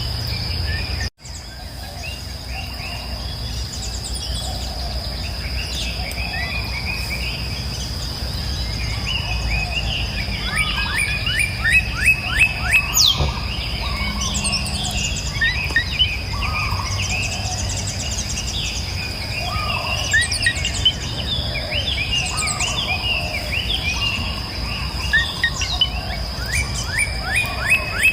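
Several songbirds singing and calling over one another with quick chirps and trills, thicker from about a third of the way in. Beneath them run a steady high insect drone and a low even background rush. All sound drops out for an instant about a second in.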